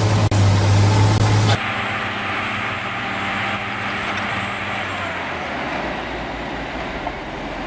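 Heavy machinery engine running with a strong low hum, cut off abruptly about one and a half seconds in by a quieter, steady mechanical noise from another machine.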